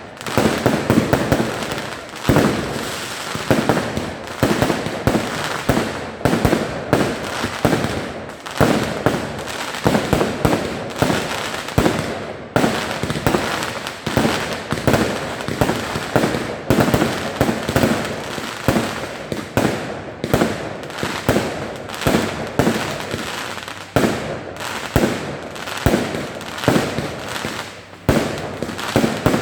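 Fireworks display: a continuous, rapid barrage of bangs, several a second, with no let-up.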